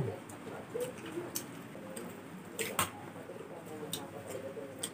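Mouth sounds of people eating grilled pork chops by hand: chewing with sharp, irregular smacks and clicks, about a dozen across a few seconds.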